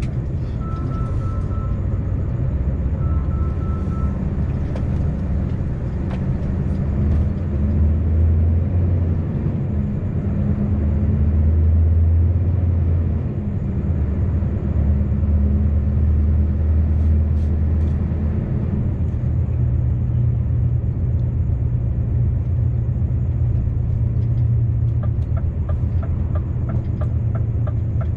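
Scania V8 truck engine heard from inside the cab, a steady low drone whose pitch shifts several times as it pulls away and changes gear. Short repeated two-tone beeps sound in the first few seconds, and a run of regular ticks comes near the end.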